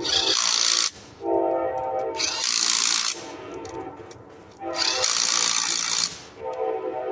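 Power impact wrench spinning lug nuts onto a car wheel. A steady motor whine alternates with three short bursts of hammering, each under a second long, as the nuts seat.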